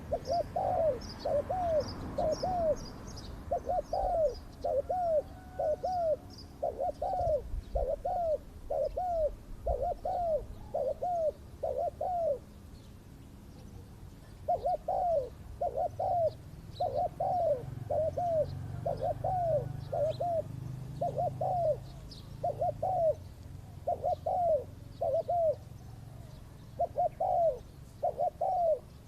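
Spotted dove cooing over and over in runs of short rising-and-falling notes, about two a second, with a pause of about two seconds midway. Small birds chirp faintly and high above it, mostly in the first half.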